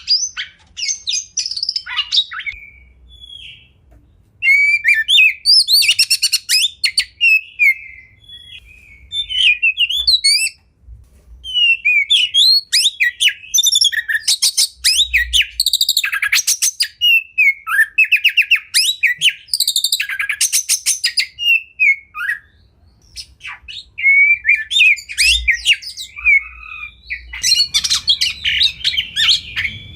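Oriental magpie-robin (kacer) singing a varied song of whistled phrases and fast, dense chattering runs, with short pauses between phrases.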